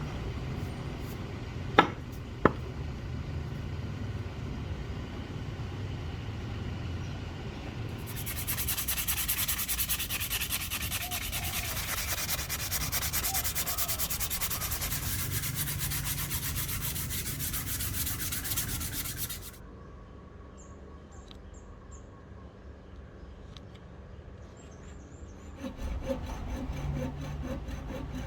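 Wooden axe handle being worked: rubbing and sanding of the wood, with two sharp knocks about two seconds in. About a third of the way through, the sanding turns louder and steadier for roughly ten seconds, then stops; quieter rubbing follows, and rhythmic strokes on the wood start near the end.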